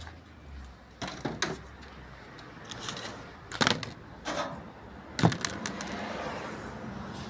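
Several sharp clicks and knocks at irregular intervals, the loudest about five seconds in, over a faint low hum.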